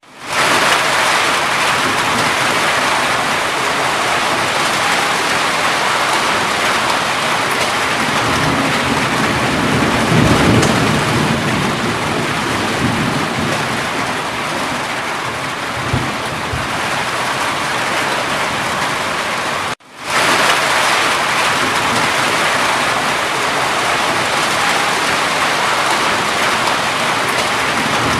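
Steady heavy rain, with a low rumble of thunder rising and fading around ten seconds in and a shorter one near sixteen seconds. The sound drops out for a moment twice, just after the start and at about twenty seconds.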